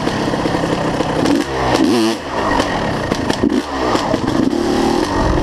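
Dirt bike engine running, revving up and back down twice around the middle.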